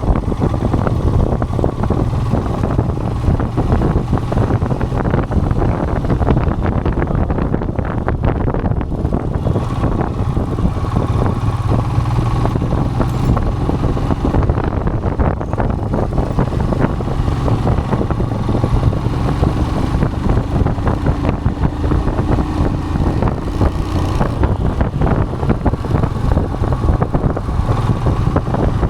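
Royal Enfield Himalayan's single-cylinder engine running steadily under way, its low hum mixed with wind rushing over the microphone.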